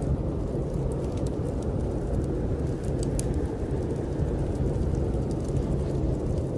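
Steady low rush of snowstorm wind with the occasional sharp crackle and pop of a wood fire burning in a fireplace.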